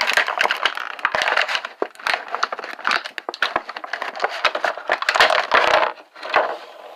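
Plastic crinkling and clicking close to the microphone, with many quick sharp clicks in a dense crackle that eases off near the end.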